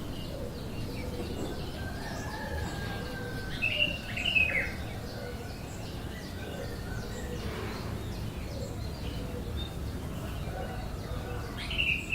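Bird chirping: scattered short high chirps, with a loud cluster of quick downward chirps about four seconds in and another near the end, over a steady low background rumble.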